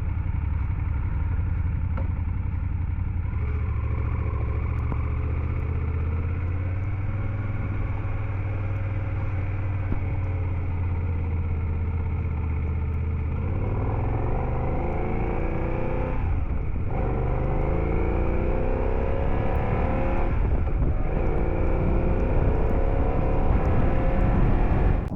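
BMW F800GS parallel-twin motorcycle engine running at low revs, then about halfway through accelerating through the gears, its pitch rising in sweeps with two short breaks at the gear changes.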